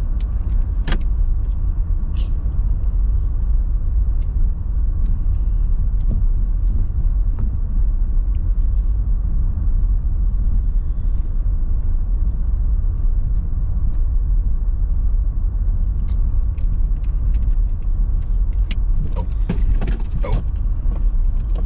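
Steady low road rumble of a car heard from inside the cabin while driving, with occasional light rattles and clicks that come more often near the end.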